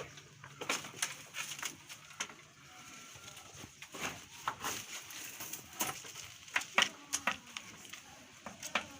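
A run of irregular sharp knocks and clicks, loudest about two-thirds of the way through.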